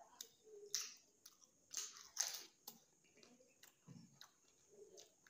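Close-up eating of pani puri: crisp fried puri shells bitten and chewed with the mouth full, giving a few sharp crunches at irregular intervals, loudest about two seconds in, between quieter wet chewing.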